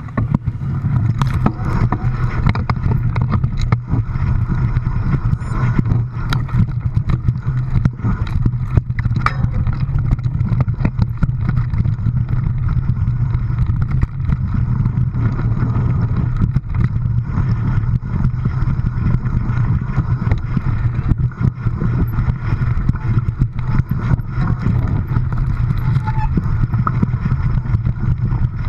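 A vehicle running steadily, heard from close by or on board: a constant low hum with many small rattles and knocks throughout.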